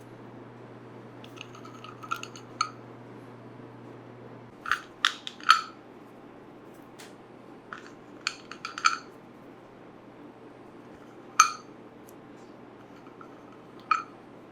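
Kitchenware clinking: clusters of short, lightly ringing knocks about two, five and eight seconds in, then single clinks near eleven seconds, the loudest, and near the end. A low steady hum runs underneath and drops a little about four and a half seconds in.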